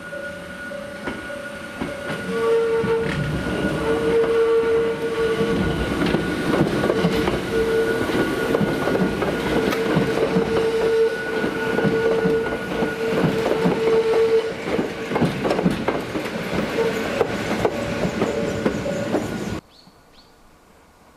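Hakone Tozan Railway electric train running close by, its wheels clattering and knocking, with steady high ringing tones held over the noise. Gets louder about two seconds in and cuts off abruptly near the end.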